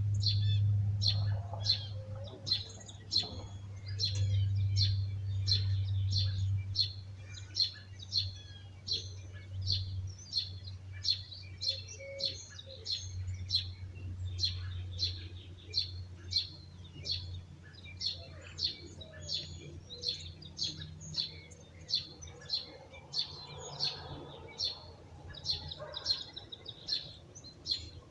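A bird chirping over and over, about two short high chirps a second, with other birds calling faintly. Under it runs a low steady hum, loudest over the first several seconds and then fading.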